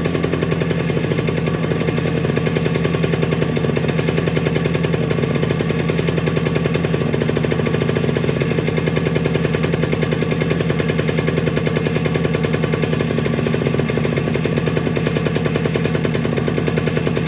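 1975 Yamaha RD350's air-cooled two-stroke parallel-twin engine idling steadily with rapid, even firing pulses, still cold shortly after a cold start.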